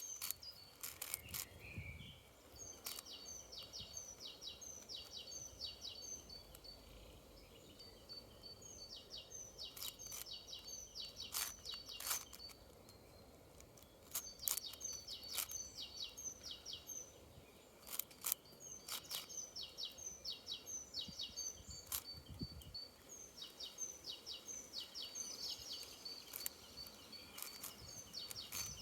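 Bird song: repeated runs of quick, short, high chirps, with scattered sharp clicks from a 6x6 puzzle cube being turned.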